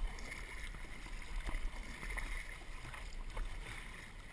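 Lake water lapping and splashing against a canoe, with a few light splashes and a low wind rumble on the microphone.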